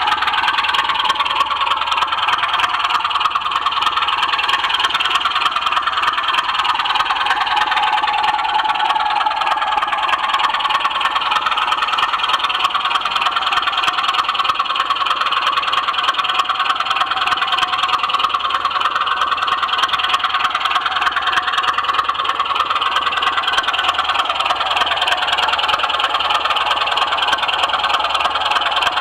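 Model railway train running on the track: a steady rattle and whir of wheels and motor, with slowly shifting pitch bands.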